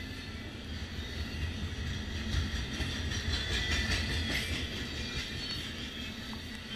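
Double-stack container train's well cars rolling past at speed: a steady low rumble of steel wheels on rail, swelling a little around the middle with a run of wheel clicks.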